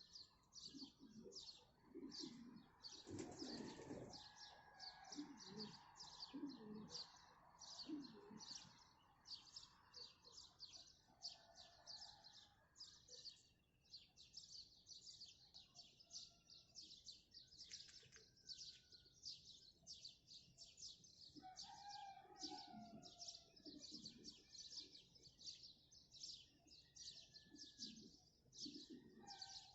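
A faint dawn chorus of many small birds chirping rapidly and without a break, with a few lower calls mixed in now and then.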